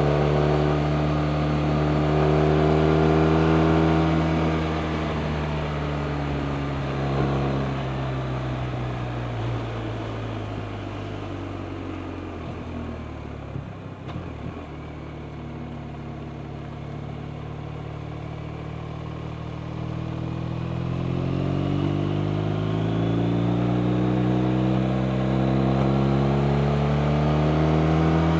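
BMW R 1250 RT's 1254 cc boxer-twin engine heard from on the bike while riding. The revs and level ease down over the first half, then the engine note climbs steadily as the bike accelerates again.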